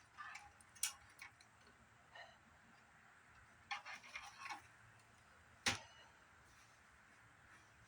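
Sparse light clicks and taps of parts being handled during CRT monitor disassembly, a small cluster about four seconds in and one sharper click near six seconds.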